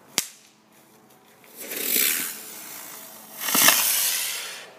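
Small hand-thrown firework going off: a sharp pop, then two hissing, spraying bursts about a second long each, the second one louder.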